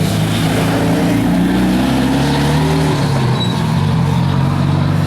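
2014 Cadillac CTS V-Sport's twin-turbo V6 under hard acceleration. Its pitch climbs for about two seconds, drops about three seconds in, then holds steady.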